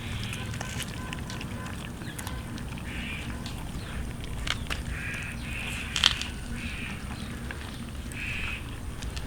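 Cats eating roast chicken: scattered sharp clicks of chewing and tearing at the meat, with about six short cat calls in the second half.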